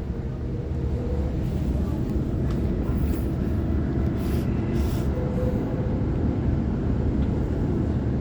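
Waratah electric multiple-unit train running along the line: a steady low rumble of wheels on track, with brief rushes of noise about three seconds in and again around four to five seconds in.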